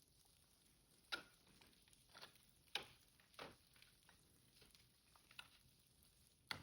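Faint, irregular clicks and taps, about seven of them at uneven intervals, over near silence.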